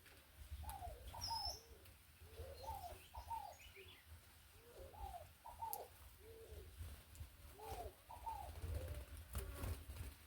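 A dove cooing: four phrases of soft arched coo notes, repeated about every two and a half seconds, with a few faint chirps from smaller birds.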